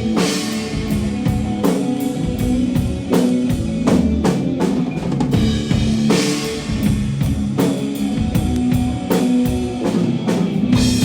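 Live rock band playing loud and drum-driven: bass drum, snare and crash cymbals pound over held bass notes, with cymbal crashes at the start, about six seconds in and again near the end.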